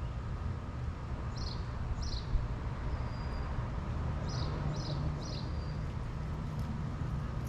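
Small birds chirping, short high calls repeated several times, over a steady low mechanical hum.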